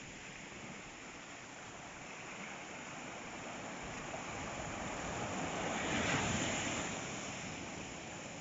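Sea waves washing on the shore, a steady surf that swells into a louder breaking wave about six seconds in, then eases off.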